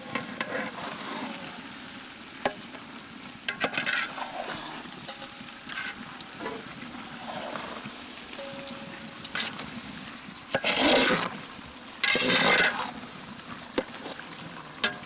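Baby potatoes frying in a spicy masala in a pan, sizzling steadily while a spoon stirs them, with scattered clicks of the spoon on the pan. Two louder, longer scrapes come near the end.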